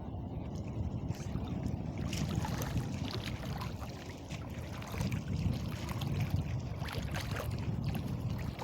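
Water splashing and lapping, with a steady low rumble of wind on the microphone.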